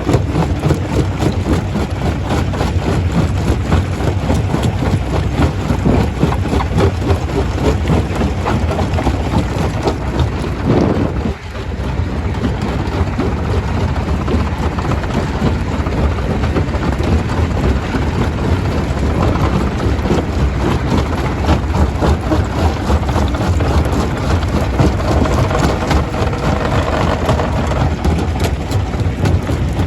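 Stone crusher running under load: a steady engine-like rumble with a dense clatter of rocks being broken and rattling through the machine, dipping briefly about a third of the way in.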